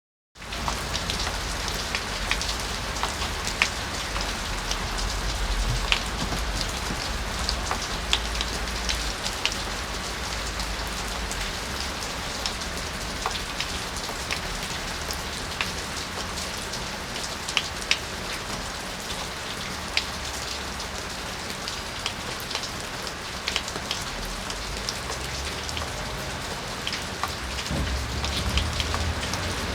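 Steady rain falling in a yard, an even hiss with individual drops striking sharply here and there.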